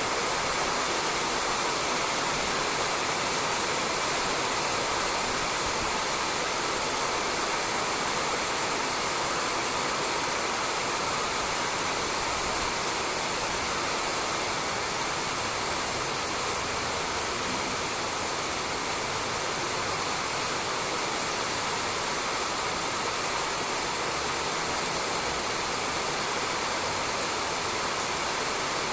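Steady rain falling on a roof, an even hiss that holds without a break.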